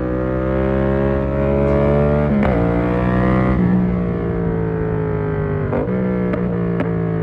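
2019 Yamaha MT-07's parallel-twin engine through an SC Project exhaust with the dB-killer fitted, running under way. The revs climb slowly, change sharply about two and a half seconds in, then ease off with the pitch falling, with another quick change in revs near six seconds.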